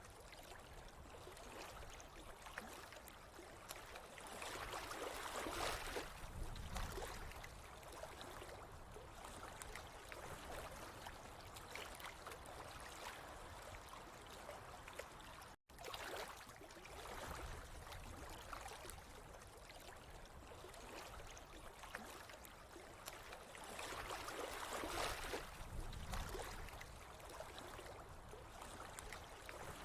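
Water trickling and gurgling steadily, swelling louder twice, with a momentary dropout about halfway through.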